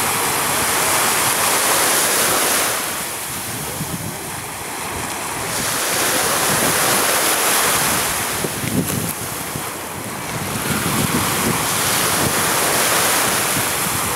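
Waves washing with wind rushing over the microphone, the rush swelling and easing about every five seconds.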